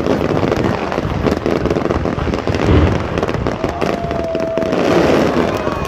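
Fireworks going off: a dense run of rapid crackling pops with a deeper bang about three seconds in, and a steady whistle lasting about a second soon after.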